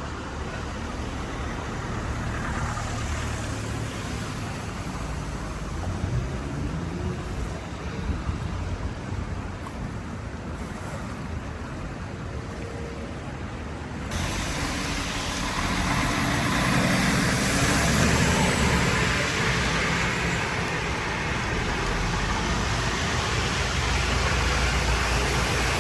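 Steady outdoor background noise, a low rumble with hiss, that turns suddenly louder and brighter at a cut about halfway through.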